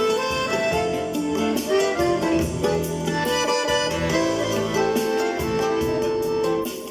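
Accordion with a MIDI system playing a melody with chords, layered with MIDI-voiced accompaniment and a steady percussion beat.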